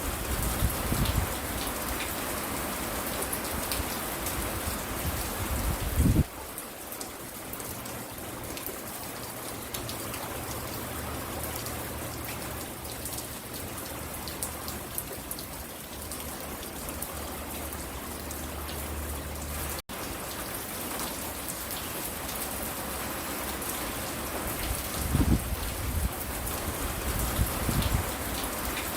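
Steady rain falling on and around a porch, heard as an even hiss of drops. There are a few loud, low thumps near the start and again near the end.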